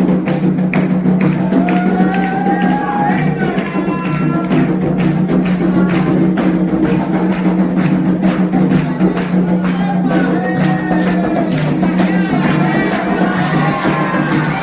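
Candomblé ceremonial music: fast, steady hand percussion with a group of voices singing.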